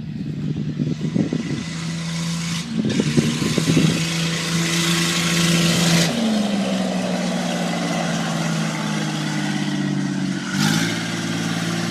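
Straight-piped John Deere Gator utility vehicle engine running with its muffler removed as it drives at a steady speed. Its pitch steps down about six seconds in and again near the end.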